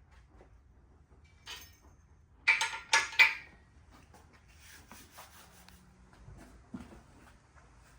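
Metal pieces clinking together: a faint knock, then three sharp ringing clinks in quick succession about two and a half seconds in, followed by a few faint taps and rustles.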